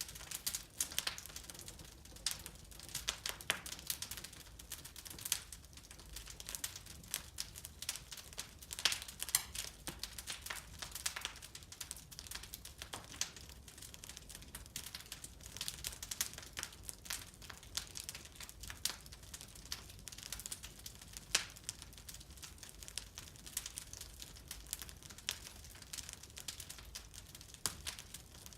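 Wood fire burning in an open fireplace: irregular snaps, crackles and pops, several a second, over a low steady rumble of the flames.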